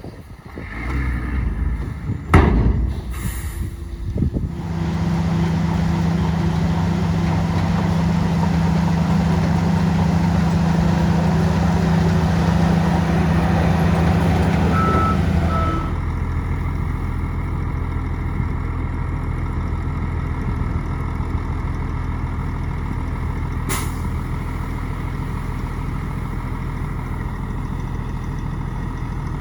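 Heavy diesel engine of earthmoving machinery running hard for about ten seconds, then dropping to a lower steady run. There is a sharp knock about two seconds in and two short beeps just before the engine eases off.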